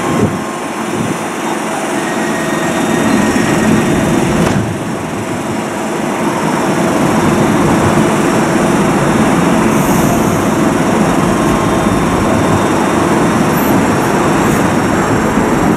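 Docklands Light Railway train moving slowly along the platform: a steady rumble of running gear with a faint motor hum, growing louder over the first few seconds and then holding. A single short knock about four and a half seconds in.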